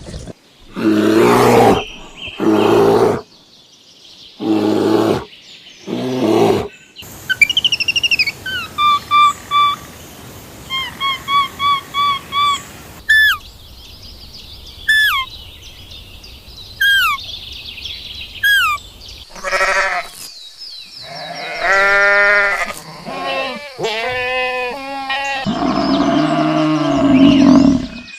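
A string of different animal calls: several short loud calls in the first seconds, then a run of quick repeated bird chirps and falling whistled notes, then more drawn-out calls to the end.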